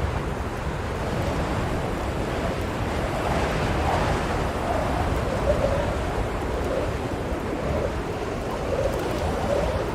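Blizzard wind blowing steadily, with a faint wavering howl rising and falling through it.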